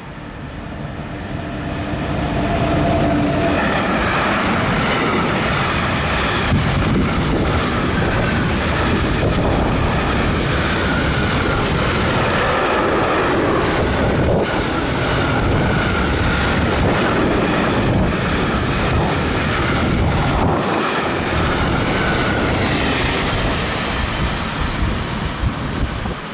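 A train running past close by: the rumble of wheels on the rails builds over the first two seconds, then holds loud and steady for about twenty seconds, with a faint high squeal from the wheels over it.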